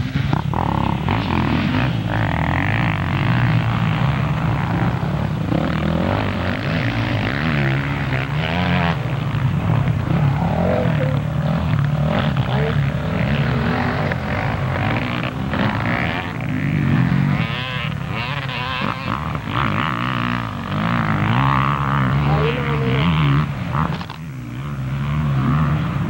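Several motocross bikes running on the track, their engines revving up and down and overlapping, with the pitch rising and falling throughout.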